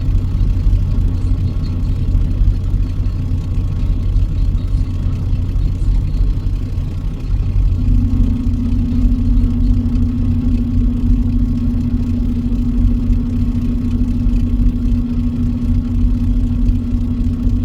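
Truck engine running, heard as a steady low drone. About seven seconds in the sound dips briefly, then a steady higher hum joins and holds.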